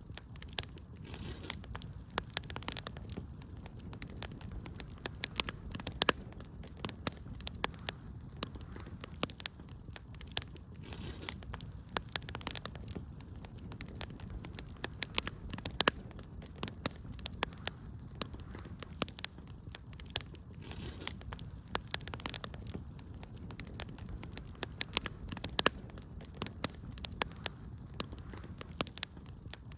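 Wood fire in a fireplace crackling, with frequent irregular sharp pops and snaps over a low steady rush of burning.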